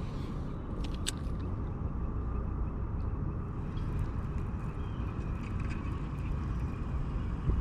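Steady low rumble of wind on the microphone, with a couple of light clicks about a second in.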